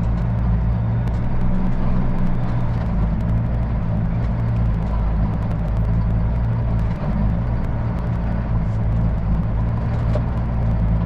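Heavy truck's diesel engine idling steadily, a low, even drone: the Kenworth C500's engine running while parked.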